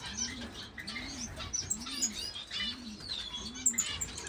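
Many small caged finches chirping and twittering over one another, with a low cooing note repeating evenly, roughly every three-quarters of a second.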